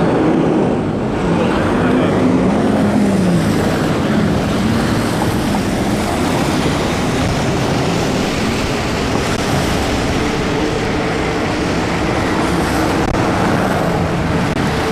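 Riding noise from a fat-tire e-bike in the rain: a steady rush of wind on the chest-mounted microphone mixed with tyres on wet pavement and traffic, with a faint tone that rises and falls about two to three seconds in.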